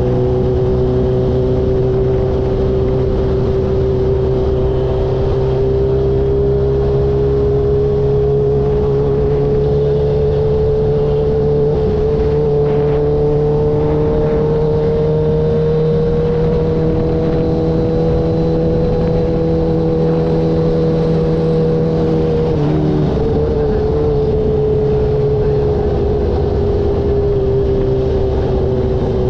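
Kawasaki H2 motorcycle engine running under way at a steady cruise. Its pitch climbs slowly, breaks briefly about two-thirds of the way through, and falls away near the end. Wind rumbles on the uncovered microphone underneath.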